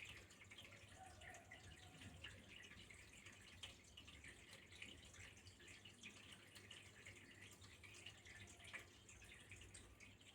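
Faint trickling water, a continuous run of small irregular drips and splashes.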